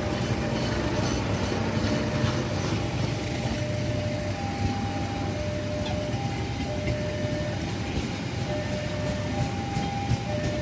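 A train rumbling past a railway level crossing, with the crossing's warning signal sounding over it in two tones that alternate, a higher and a lower one, each held for about half a second to a second.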